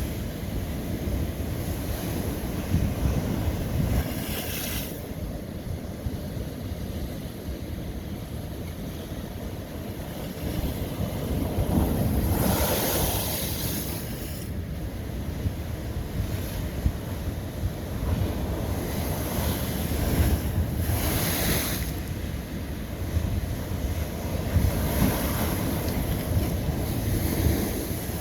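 Ocean waves breaking on a lava rock shoreline: a steady churning wash with three louder surges as waves crash in, the strongest about halfway through.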